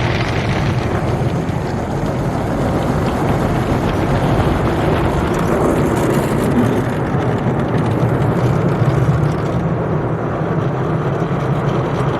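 MacNeil tunnel car wash equipment working over the car, heard from inside the cabin: a steady rush of water spray and machinery with a low motor hum underneath.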